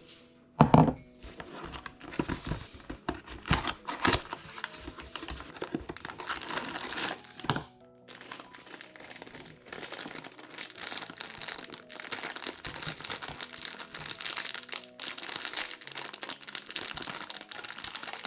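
Packaging being crinkled and torn, with a sharp knock about a second in, then a dense run of crackling and rustling that eases briefly before settling into steadier crinkling. Quiet background music plays underneath.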